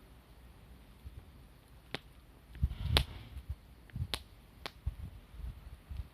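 Wood fire burning, with a handful of sharp, isolated pops of burning wood over a low, uneven rumble; the loudest pop comes about halfway through.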